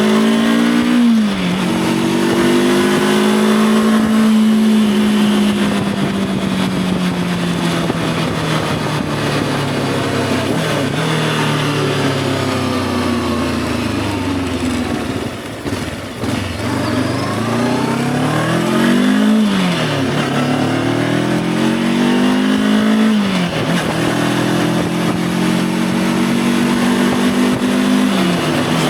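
Voge 525 DSX's parallel-twin engine under way: the revs climb and drop sharply at an upshift about a second in, then fall slowly for a long stretch off the throttle, before climbing again with quick upshifts every few seconds near the end.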